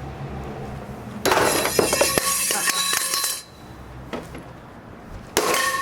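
A refrigerator being smashed: a loud crash of shattering glass with clinking pieces about a second in, lasting about two seconds, then another crash near the end.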